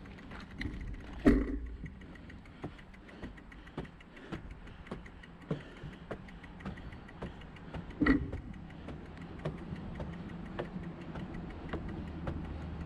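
A bicycle rolling along with a low rumble, rattling and ticking irregularly, with two louder clunks, one about a second in and one about eight seconds in.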